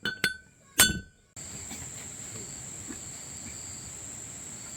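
Two sharp metal-on-metal clinks with a ringing tone, about half a second apart, from steel parts or tools being struck. A little over a second in, the sound switches abruptly to steady outdoor ambience with a constant high-pitched insect drone.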